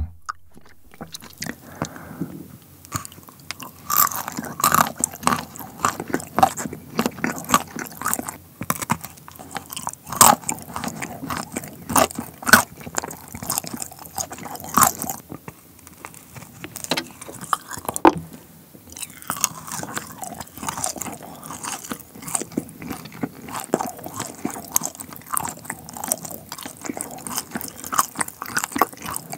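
Close-miked biting and chewing of a matcha bark chocolate topped with nuts and dried fruit: an irregular run of crisp crunches as the slab snaps and is chewed.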